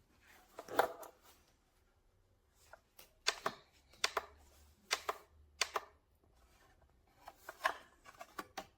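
A series of irregular sharp clicks and knocks, some coming in quick pairs, like small hard objects being handled and set down.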